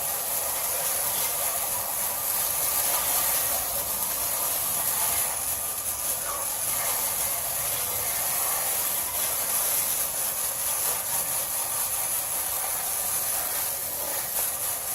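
Garden hose spraying water onto an air-conditioner condenser coil to rinse out cottonwood: a steady hiss.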